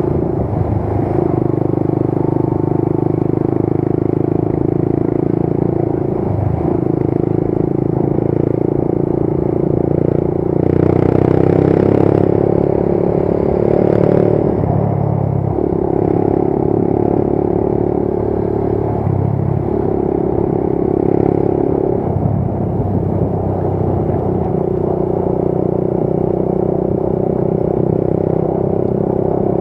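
Motorcycle engine running under way. Its steady note drops and picks up again every few seconds, and a brief louder hiss comes about eleven seconds in.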